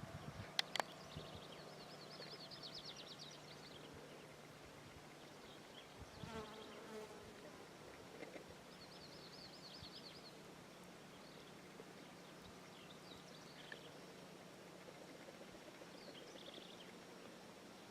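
Songbirds singing faintly: a high, rapid trill of repeated notes comes about three times among scattered short calls, over a steady low buzz.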